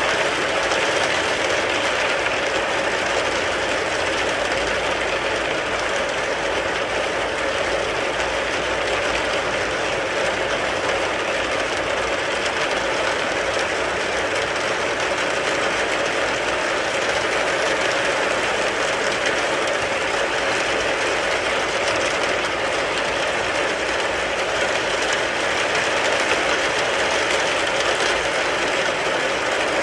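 Steady rain falling on a car, an even, unbroken noise with no separate drops or gusts standing out.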